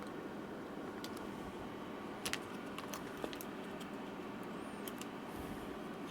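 A few light clicks and taps of tools and hands working on a laptop's opened case during battery removal, the loudest a quick double click about two seconds in, over a steady low hum.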